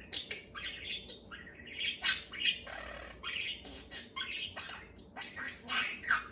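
Budgerigar chattering to itself: a rapid, unbroken stream of short chirps, clicks and squawks.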